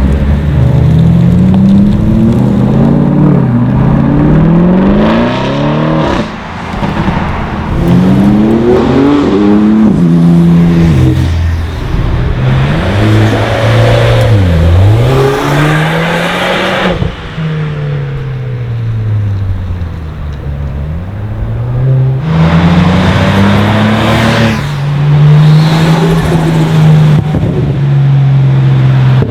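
Modified cars passing one after another under hard acceleration. Their engines rev up, drop back at each gear change and rev up again, and the pitch falls as each car goes by.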